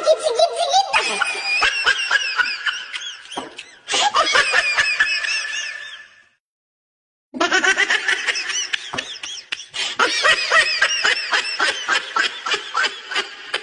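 High-pitched giggling laughter in quick, wavering pulses, which cuts out for about a second midway and then starts again.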